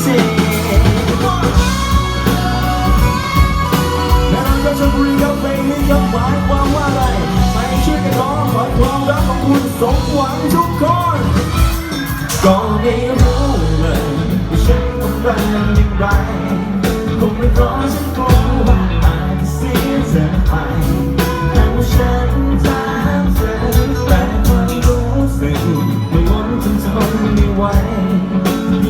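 A rock band playing live, with a singer over electric guitar, bass and drums keeping a steady beat.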